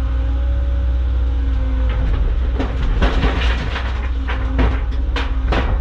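Caterpillar excavator's diesel engine running steadily. From about two seconds in, a run of irregular clattering impacts as a bucketful of dirt and rocks tumbles into the dump truck's bed.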